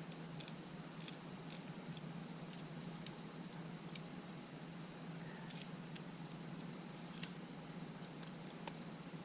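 Faint, scattered light clicks and scratches of a small hand tool working against the plastic and metal of a camera LCD panel and its frame while the adhesive is released, over a steady low hum.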